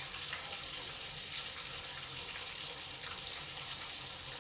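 Crumbed chicken pieces frying in hot oil in a pan: a steady sizzle with small scattered crackles.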